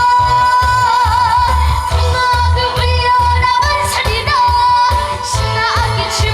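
Korean trot song performed live: a high singing voice holds long notes with wavering vibrato and slides, over a backing track with a steady pulsing bass beat.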